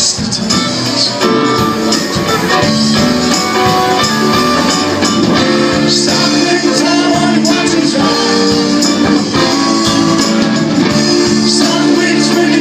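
A live band playing loudly, with no pause.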